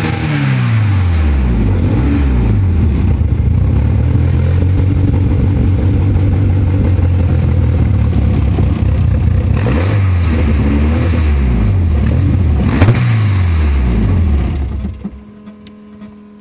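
Caterham 7's engine, stationary, falling from a high rev to a steady idle, then blipped twice, about ten and thirteen seconds in, with the revs dropping back each time. The engine stops about fifteen seconds in, leaving a faint steady hum.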